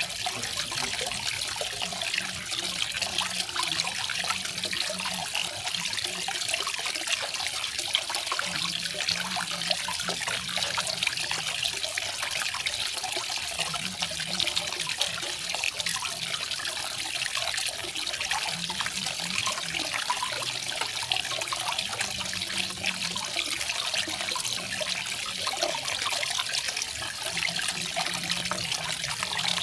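Small garden waterfall splashing in a steady, unbroken rush of falling water.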